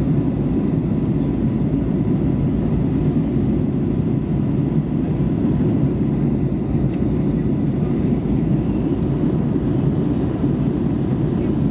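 Airbus A320neo cabin noise: a steady low rumble of the engines and airflow heard from inside the airliner, with a faint steady tone above it.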